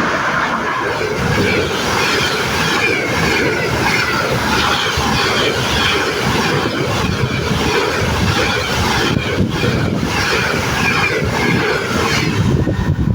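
Double-deck express passenger train passing close by at about 100 km/h: a loud, steady rush of wheel and rail noise with a repeating clatter of wheels over the rail joints.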